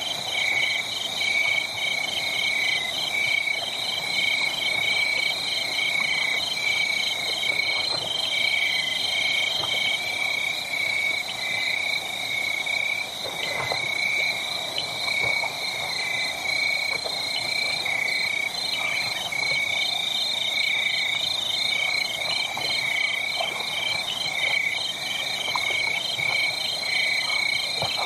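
Night chorus of crickets and other insects: steady high trills with fast, even pulsing calls that carry on without a break. A few faint scattered crackles of a wood fire sound beneath it.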